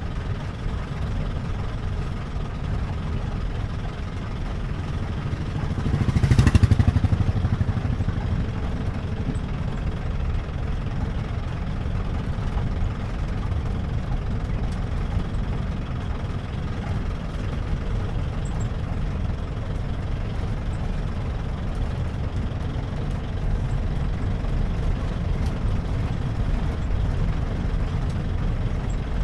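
A jeep's engine running steadily while it drives, a low rumble with road noise. About six seconds in, the sound swells louder for a second or two before settling back.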